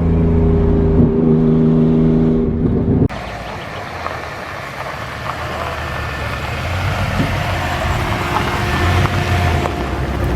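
A car engine running steadily close by. About three seconds in the sound cuts abruptly to a noisier vehicle rumble that slowly grows louder.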